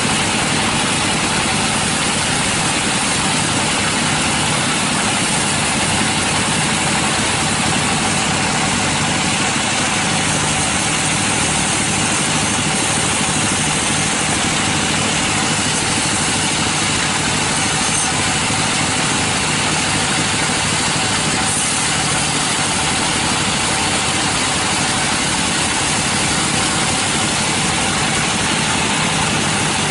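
Sawmill machinery running steadily under engine power, a continuous dense mechanical noise with no change in level.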